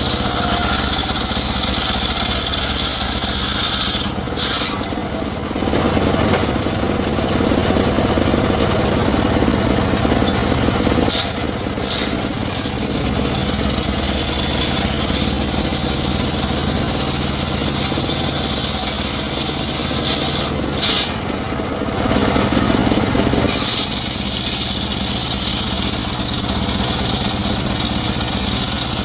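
Engine-driven wood saw running without a break, cutting timber. Three times, a few seconds in, about eleven seconds in and about twenty seconds in, the sound drops lower for a second or up to about three seconds.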